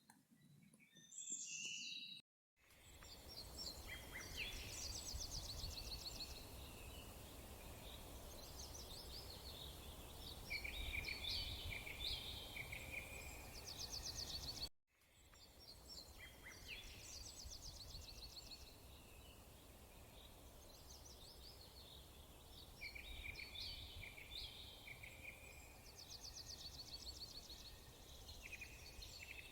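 Wild birds calling, a busy mix of short chirps and fast, buzzy trills, over a steady low rumble of outdoor noise. The sound drops out to silence twice, briefly.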